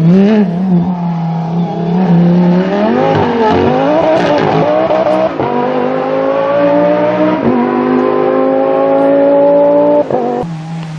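Race car engine accelerating hard, its pitch climbing in long pulls broken by a gear change, then cutting off abruptly near the end to a steady lower engine note.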